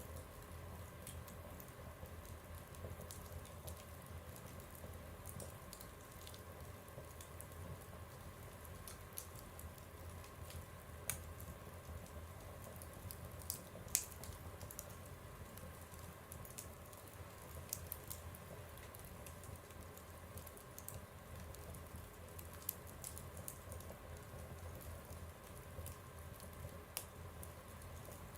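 Wood fire burning in a stove: a low, steady rumble with scattered crackles and pops, the sharpest about 11 and 14 seconds in.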